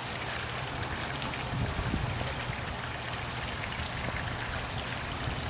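Wind blowing across the microphone: a steady rushing noise with uneven low rumbling from the gusts.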